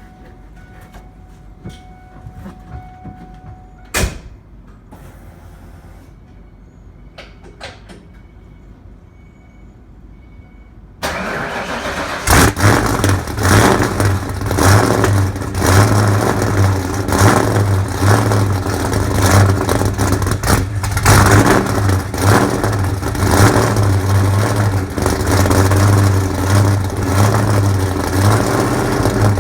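Ford 347 stroker small-block V8 cold start: after several seconds of quiet with a few clicks, the starter cranks it about eleven seconds in and it catches a second later, then runs loudly at an unsteady idle while still cold.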